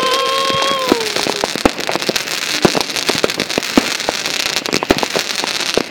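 Consumer fireworks: a shrill whistling tone that holds steady and dies away about a second in, followed by rapid, irregular crackling pops.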